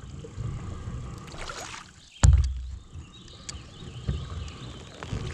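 Kayak being paddled through shallow water: low thumps and splashing of paddle strokes, with one sharp knock a little over two seconds in.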